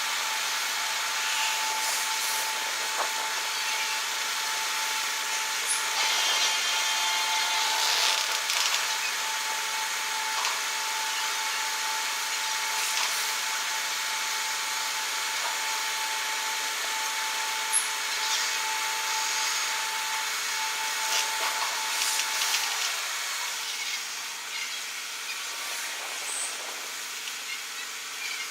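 Car ferry's machinery during berthing: a steady mechanical hum and hiss with a high, steady whine. The whine stops about 23 seconds in and the sound drops a little quieter, with a few scattered knocks.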